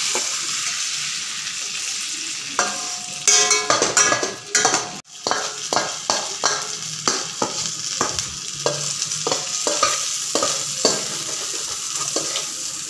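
Goat brain frying in oil and masala in a steel pan, sizzling steadily, while a spoon scrapes and knocks against the pan as the pieces are turned. The clanks are loudest and ring briefly about three to five seconds in, then go on as lighter taps.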